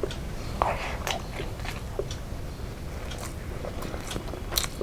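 Close-miked chewing and biting of food, with scattered small wet clicks and crunches over a low steady hum.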